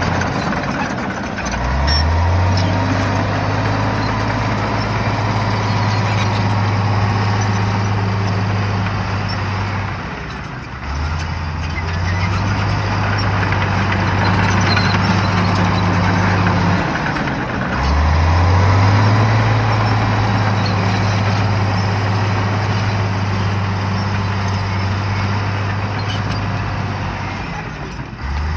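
Shantui bulldozer's diesel engine working under load. Its pitch sweeps up about 1.5 s in, again around 11 s and 18 s, and near the end, each time after a brief dip, as the throttle comes back up for each push.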